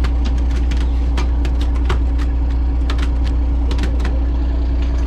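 Fishing boat's engine idling, a steady low drone, with irregular sharp clicks and taps on deck over it.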